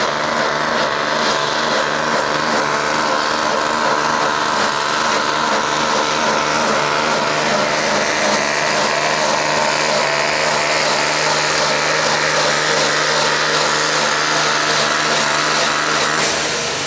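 Farm Sport class pulling tractor's engine running hard and steady under full load as it drags the weight sled down the track, easing off near the end.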